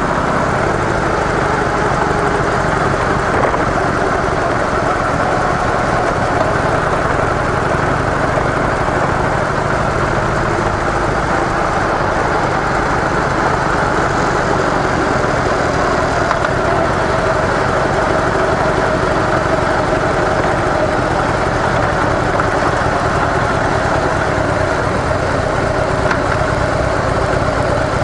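Harley-Davidson CVO Softail Deluxe's air-cooled Twin Cam 110 V-twin running steadily through its stock mufflers.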